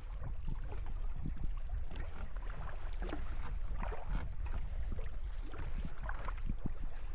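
Water splashing and lapping around a sea kayak being paddled, irregular little splashes over a steady low rumble.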